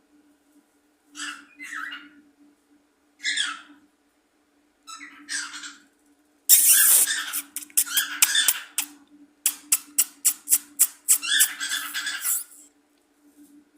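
A bird calling: three short separate calls, then a longer run of rapid notes from about halfway through, over a steady low hum.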